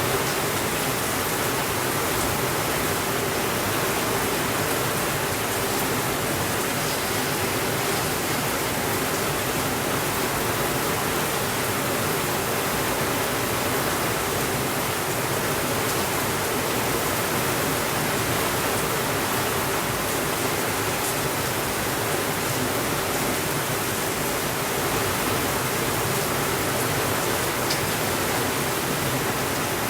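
Steady rainfall making an even hiss, with a few faint clicks now and then.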